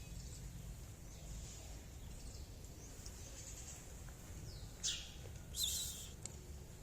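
A small bird chirps twice, short high calls about five and five and a half seconds in, over a steady low background rumble.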